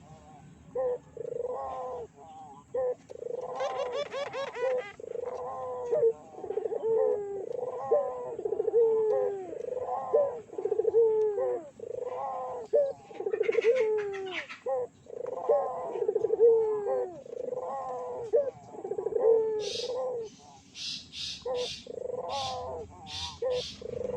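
Puter doves (domesticated Barbary doves) cooing, one falling coo after another with hardly a break, as a lure call to set other puter doves calling. Near the end a series of short, high chirps comes in, about eight of them.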